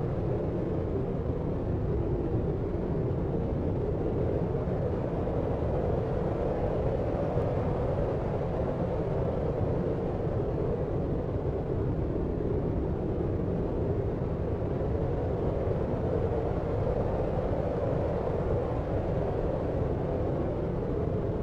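Steady deep white noise, an even, muffled rush with most of its weight low and no distinct events.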